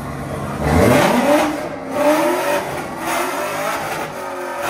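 Car engine revved from idle several times in quick succession, the first and loudest rev climbing sharply about a second in, with further revs after it.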